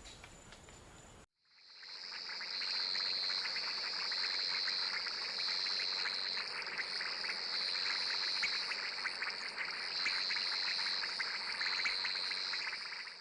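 A dense chorus of insects trilling: a steady high-pitched trill that grows louder and softer in stretches of about a second, over a crackle of fainter chirps. It starts about a second and a half in and stops abruptly near the end.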